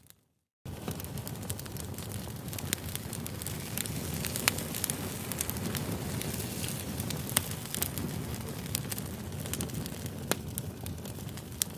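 Campfire burning, a steady low rumble of flames with frequent sharp crackles and pops of burning wood. The sound drops out completely for about half a second at the very start, then comes back.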